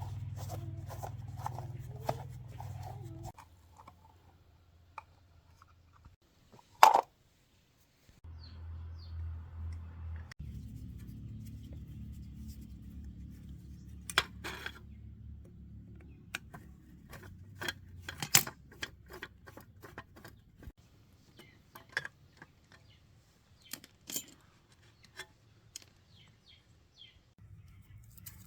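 Short metal clicks and taps of hand work on parts, with one loud click about seven seconds in, over a low hum that stops about three seconds in and comes back about ten seconds in.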